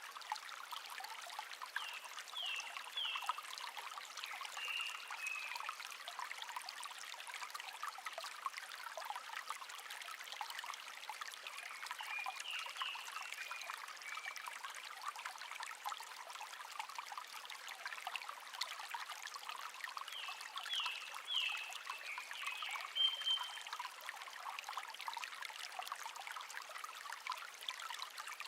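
Shallow stream babbling and trickling. A small bird sings a short phrase of quick chirps three times, about every eight to nine seconds.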